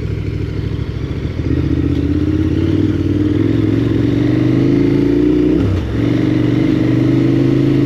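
KTM 1290 Super Adventure R's V-twin engine pulling steadily, its pitch creeping up; it dips briefly about six seconds in, then pulls on again.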